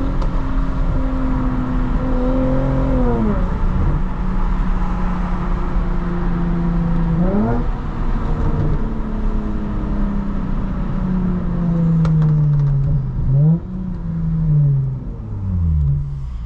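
Lexus IS350's V6 running through a loud, nearly straight-through exhaust (de-catted mid-pipe, muffler delete) while cruising. The note holds steady, drops away, then climbs sharply twice as the throttle comes on again, and falls off near the end as the car slows.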